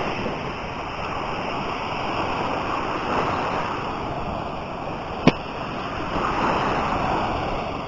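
Sea waves washing onto a beach, a steady rush that swells and eases every few seconds, with one sharp click a little over five seconds in.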